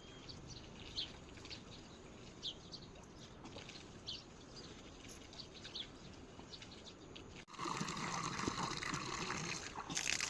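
Small birds chirping in short, repeated calls over a faint steady hiss. About seven and a half seconds in, the sound cuts abruptly to louder, steady rushing water.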